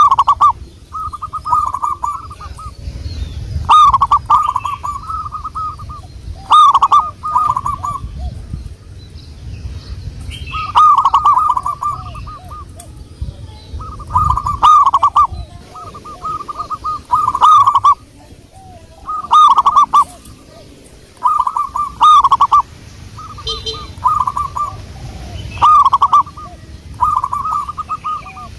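Zebra doves (perkutut) cooing: a rolling, stuttering coo phrase repeated about every two to three seconds, with a fainter, lower coo from another dove between the phrases.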